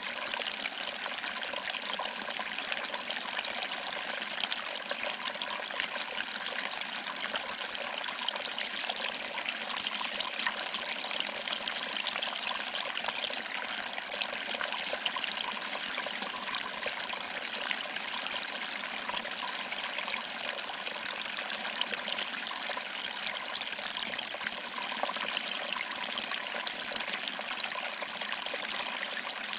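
Small waterfall: water trickling over rocks and splashing into a pool below, a steady even rush with little deep rumble.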